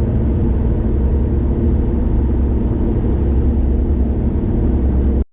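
Steady low rumble of a car driving along a highway, engine and tyre noise heard from inside the vehicle. It cuts off suddenly at the very end.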